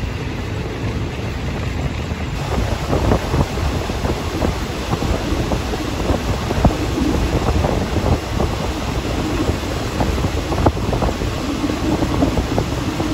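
Passenger train carriage rolling along, heard at an open window: a steady rumble, with the wheels knocking irregularly over rail joints from a few seconds in and air rushing past.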